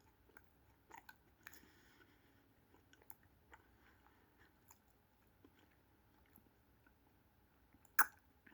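Chewing close to the microphone: soft mouth clicks and smacks from eating an ice cream sandwich with a brown sugar cookie, with one sharper click about eight seconds in.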